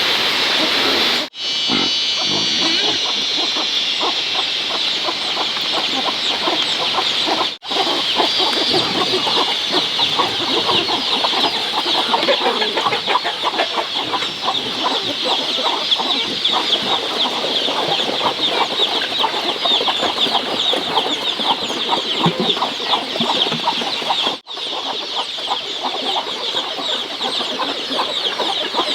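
A flock of chickens clucking and calling continuously, many birds at once. The sound cuts out briefly three times.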